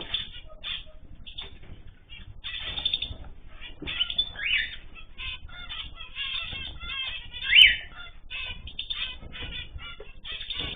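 Ornamental cage birds chirping with many short, quick calls, mixed with wing flutters. One louder, sharp falling call comes about three-quarters of the way through.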